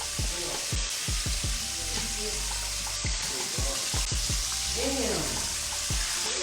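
Chicken frying in hot oil, a steady sizzling hiss.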